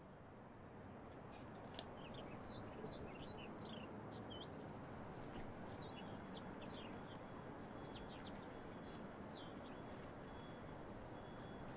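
Small birds chirping in quick, short sweeping notes over faint steady outdoor background noise, with a single light tick about two seconds in.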